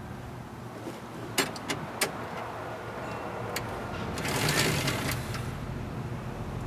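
Interior door handle being fitted and screwed in with a hand Torx screwdriver: a few sharp clicks in the first half, then about a second of rasping scraping.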